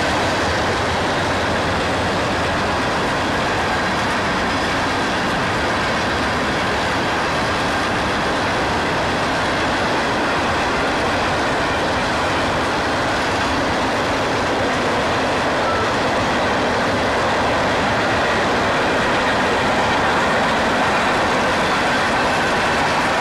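Freight train rolling past at track speed: a steady, loud run of wheels on rail with no let-up.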